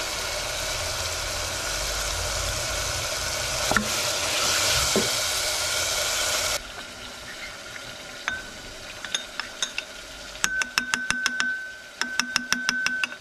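Tomatoes sizzling as they fry in a steel pot, stirred with a wooden spoon, with a couple of knocks of the spoon against the pot. About six and a half seconds in, the sizzling cuts off. It gives way to a metal spoon stirring a paste in a ceramic bowl, which clinks rapidly against the bowl, about six times a second, near the end.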